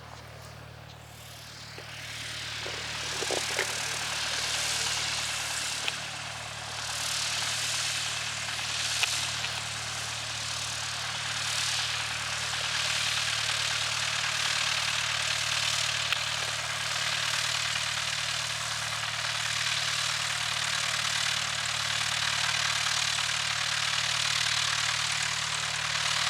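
Light propeller airplane engine running, coming up loud about two seconds in and then holding steady with some rise and fall.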